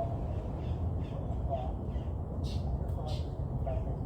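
Birds calling in short, harsh bursts, the two loudest a little past the middle, over a steady low rumble.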